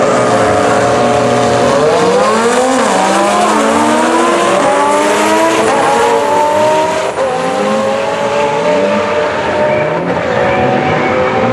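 Drag racing car accelerating hard at full throttle. The engine pitch climbs and drops back sharply at each of several quick upshifts.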